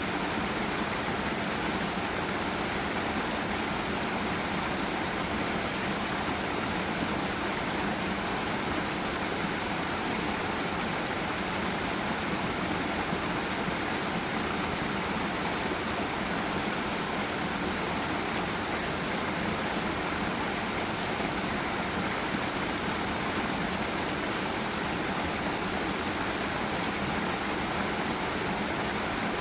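Forest stream and small waterfall, water rushing and splashing in a steady, unbroken flow.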